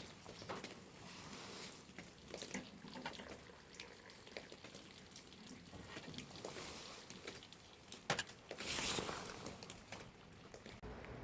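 Water dripping and splashing in irregular drops, with a louder splash about nine seconds in.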